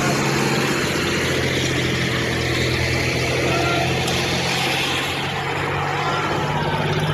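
Tractor diesel engine running steadily with an even hum, which cuts off abruptly at the end.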